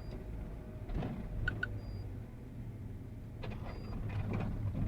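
Steady low drone of a GAZ Sobol van's engine and tyres heard from inside the cabin while driving, with a short, faint, high beep about every two seconds.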